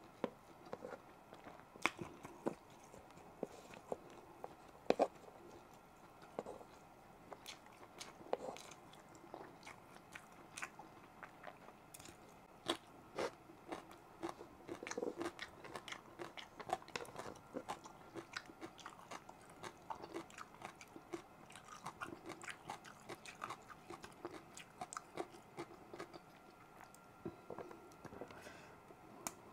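A person chewing and eating beef and rice by hand, with many short, sharp wet mouth clicks scattered throughout.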